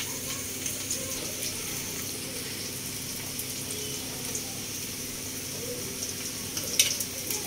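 Steady sizzling hiss of chopped onions frying in oil for a tempering, over a low steady hum. A few sharp clicks of a knife against a steel plate come near the end.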